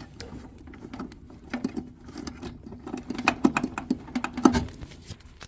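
Irregular metallic clicking and rattling as an electric-heat sequencer is unclipped and worked out of its sheet-metal mount inside an air handler, over a faint steady hum.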